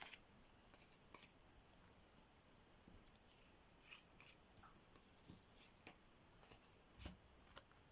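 Faint light clicks and soft swishes of playing cards being handled and slid on a table, scattered irregularly.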